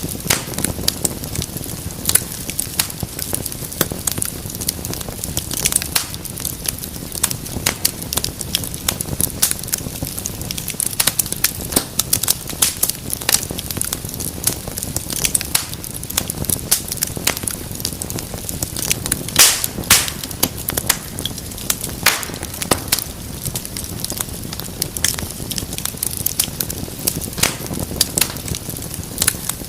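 Wood fire crackling steadily, with many irregular sharp pops and snaps over a soft low rumble of flames; a few louder pops come about two-thirds of the way through.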